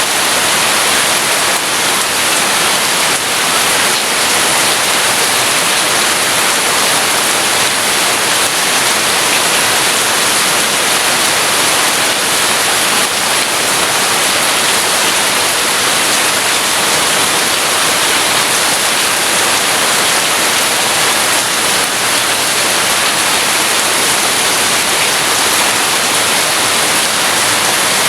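Rain falling steadily, an even hiss with no thunder heard.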